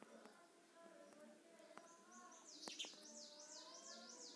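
Faint bird song in the background over near silence: from about halfway through, a quick, repeated high call, with a couple of faint clicks in the middle.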